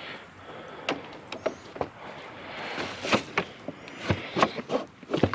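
Scattered knocks, clicks and rustling from junk being handled and moved around in a pile, with a brief swell of noise about three seconds in.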